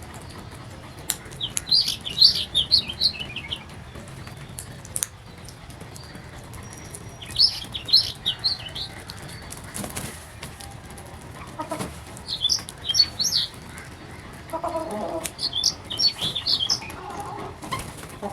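Small birds chirping: four short bursts of rapid high notes a few seconds apart, with lower calls in between toward the end.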